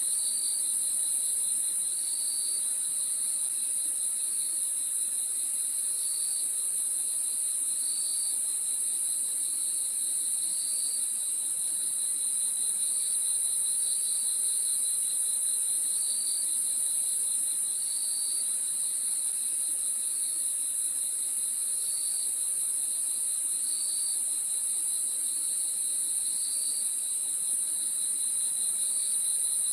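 Crickets chirping in chorus: a steady high-pitched trill, over a lower, fast pulsing chirp with short chirps repeating about every second and a half.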